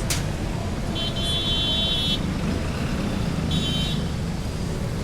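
Steady street traffic rumble, with a high-pitched vehicle horn sounding twice: a beep of about a second starting a second in, then a shorter one about three and a half seconds in. A sharp click right at the start.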